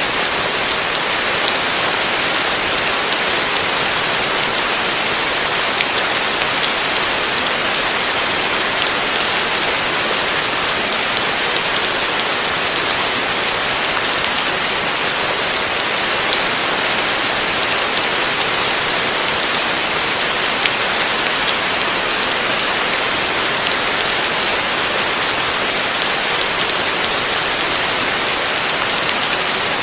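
Heavy rain falling on a roof, a steady, even hiss with no let-up.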